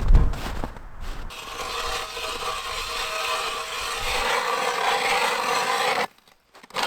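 Ice auger boring a hole through lake ice: a steady grinding scrape that stops abruptly about six seconds in.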